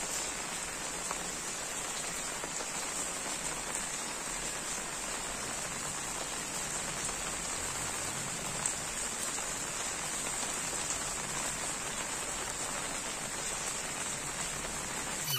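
Heavy rain falling steadily, an even hiss without letup.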